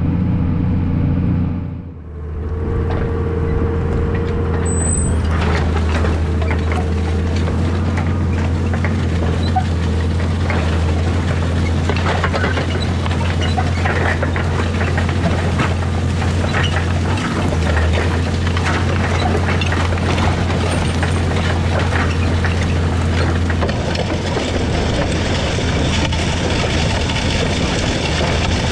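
Large tractor engine running steadily under a low, even hum, with a short drop in level about two seconds in.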